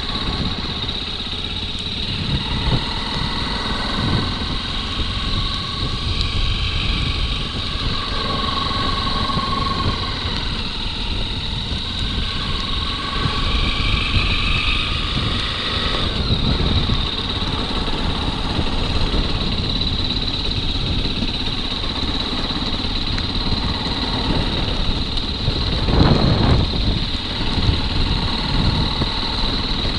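Motorcycle engine running steadily while riding on a dirt road, with a louder surge about 26 seconds in.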